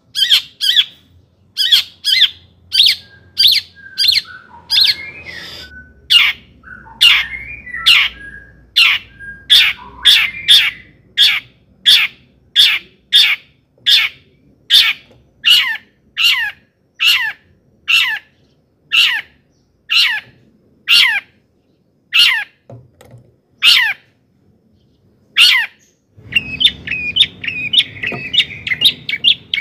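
Long-tailed shrike (cendet) calling: a long series of harsh, downward-slurred calls at about two a second, with softer warbled notes between them in the first few seconds. Near the end it breaks into a fast, scratchy chatter.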